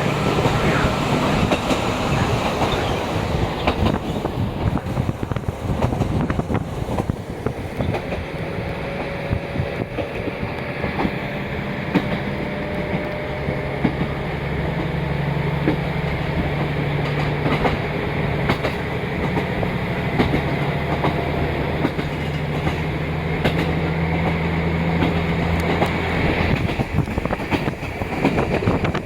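Diesel railcar running, heard from on board: a steady diesel engine drone under the clickety-clack of the wheels over rail joints. Near the end the engine note fades away, leaving the wheel noise.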